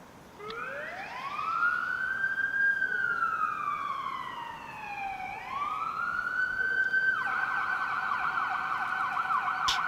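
Emergency vehicle siren: a slow wail that rises, falls and rises again, then switches to a fast yelp about seven seconds in.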